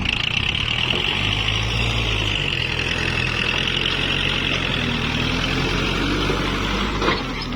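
Kubota MU4902 tractor's diesel engine running steadily under load, with a steady high hiss above the engine note; the low engine note swells for a moment about a second in.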